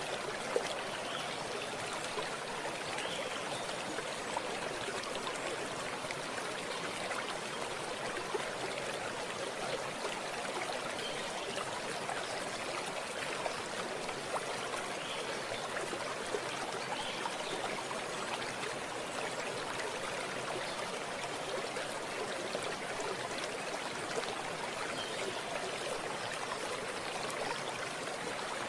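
Running water in a small stream, flowing steadily with a babbling sound and a few brief louder splashes.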